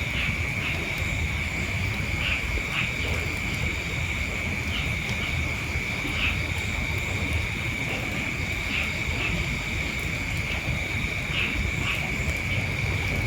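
Steady, high-pitched insect trill with short chirps scattered through it, over a low wind rumble on the microphone.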